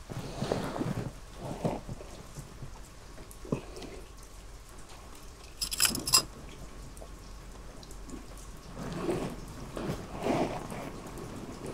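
Steady rain falling, with rustling from a vinyl rain suit as the wearer moves and crouches. There is a short, sharp crackle about six seconds in.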